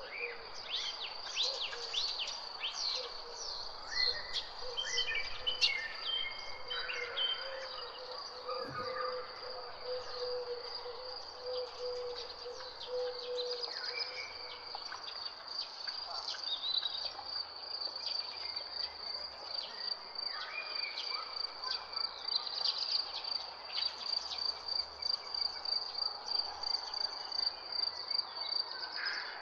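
Birds chirping in quick, short, falling calls over a steady high-pitched insect trill that runs throughout. A low steady note sounds underneath and stops about halfway through.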